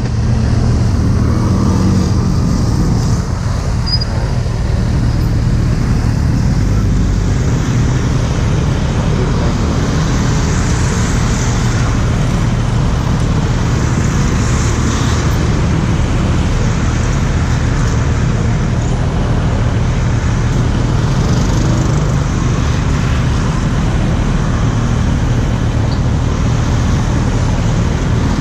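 Kawasaki Z800's inline-four engine running at a steady riding speed, mixed with loud wind rushing over the action camera's microphone.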